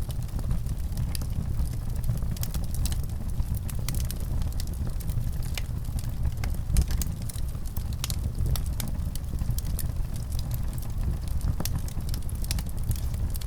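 Wood fire in a fireplace crackling: a steady low rumble with irregular sharp pops and snaps throughout.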